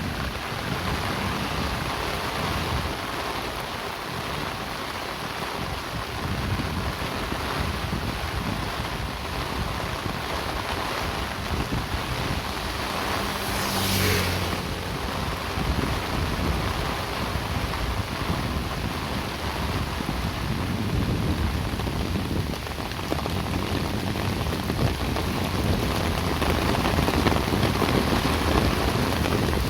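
Steady rain falling, an even hiss throughout. A vehicle passes close by about halfway through, swelling and fading within a couple of seconds.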